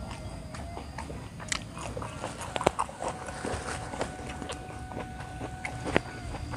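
Close-up biting and chewing of crisp raw vegetables, wet crunching with a few sharp crunches, the loudest near the end.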